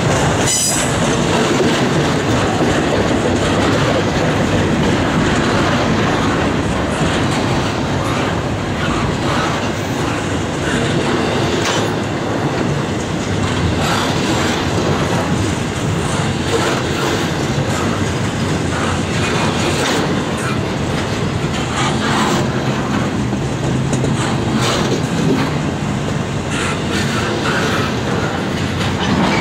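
Double-stack container train cars rolling past: a loud, steady rumble of steel wheels on rail, with scattered clacks as the wheels cross rail joints.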